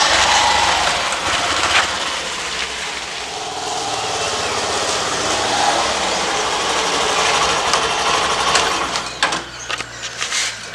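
Hero Glamour single-cylinder motorcycle engine running as the bike rides off and along. Near the end it quietens, with a few sharp clicks.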